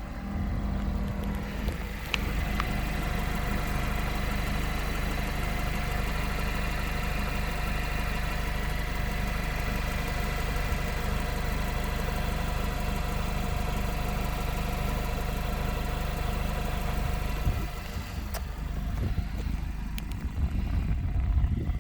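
2016 Mazda MX-5 Miata's inline-four engine and exhaust idling steadily. About eighteen seconds in the sound drops and turns uneven, with a couple of clicks, then grows louder near the end.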